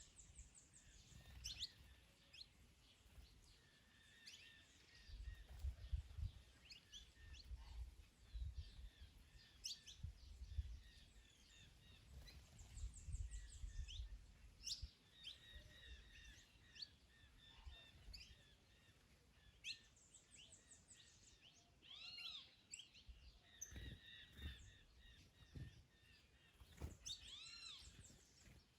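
Several small birds chirping and singing faintly in overlapping short calls, with low gusts of wind rumbling on the microphone now and then.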